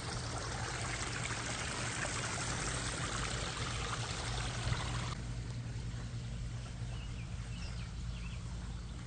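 Backyard pond waterfall and fountain splashing and trickling, with a steady low hum underneath. About five seconds in the water sound cuts abruptly to a quieter trickle, with a few faint high chirps.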